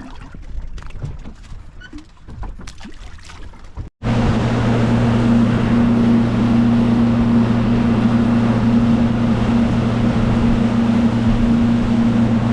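Scattered knocks and clicks, then, about four seconds in, a small boat's outboard motor running under way at steady speed: a constant engine drone with a loud rush of wind and water.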